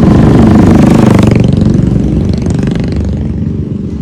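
Motor scooter riding, its engine and road and wind noise loud at first and fading over the last two seconds.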